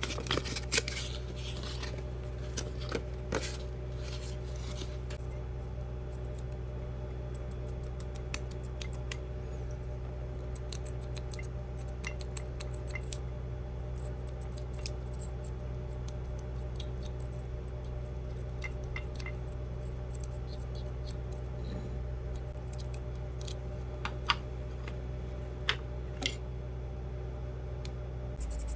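Scattered light clicks, taps and short scrapes of small tools and parts being handled, over a steady low hum.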